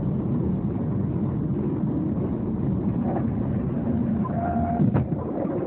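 Steady road and engine noise of a moving car, heard from inside the cabin, with a brief knock about five seconds in.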